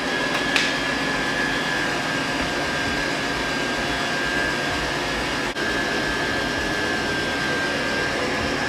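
Gold 'N Hot portable soft-bonnet hair dryer running steadily, its fan blowing air through the hose with a steady rush and a thin high whine on top.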